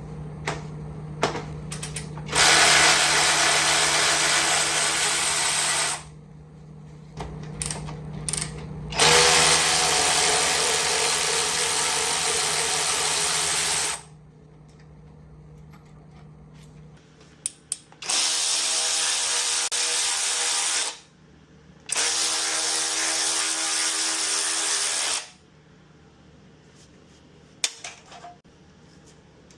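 Handheld power tool run in four long bursts of about three to five seconds each, backing out the bolts that hold the engine to the engine stand. Small clicks and clanks between the bursts.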